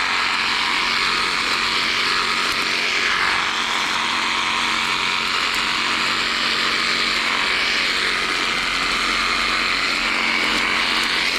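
Cordless Skil reciprocating saw (Sawzall) running steadily as it cuts through small tree branches.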